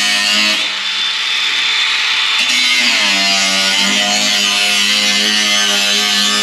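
A power tool running under load: a steady whine with hiss that shifts pitch about half a second in and again about three seconds in.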